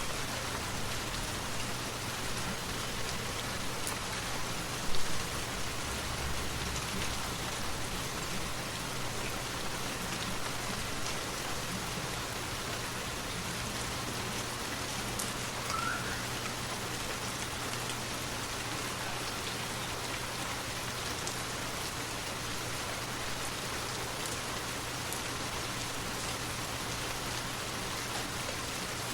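Steady rain falling, an even continuous hiss, with a brief louder burst about five seconds in.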